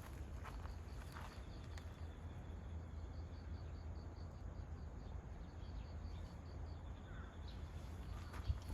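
An insect, likely a cricket, chirping steadily at about four pulses a second over a low steady hum, with a few faint clicks and short chirps.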